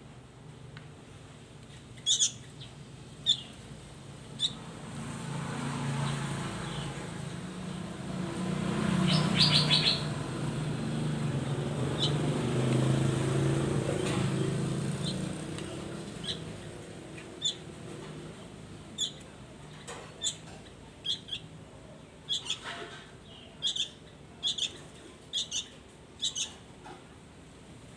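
A songbird giving short, sharp chirps, one every second or two. In the middle, a low rumble swells and fades under the calls.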